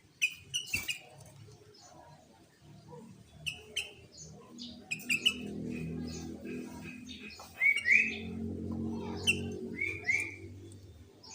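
Sooty-headed bulbul (kutilang) calling: short, bright chirped notes repeated at irregular intervals, some curving upward. A low, steady hum runs beneath them from about four seconds in.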